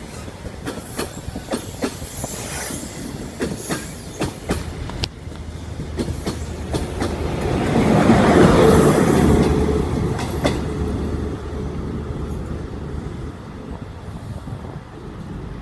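An HST's coaches roll past with a regular clickety-clack of wheels over rail joints. The rear Class 43 power car's diesel engine then passes loudly about eight seconds in, and its drone fades as the train pulls away.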